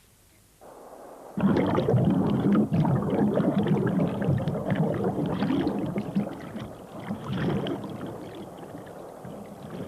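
Water in a garden pond splashing and churning heavily, starting suddenly about a second and a half in and fading over the last few seconds.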